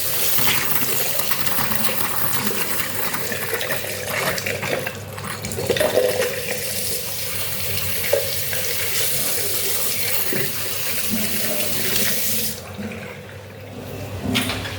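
Water running from a tap and splashing steadily; the flow drops off for a moment near the end, then comes back.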